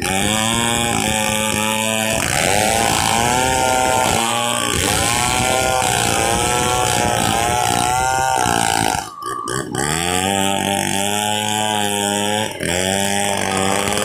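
Stihl 070 two-stroke chainsaw running at high revs while sawing a log into boards, its pitch wavering up and down under load. About nine seconds in the revs drop for about a second, then pick back up.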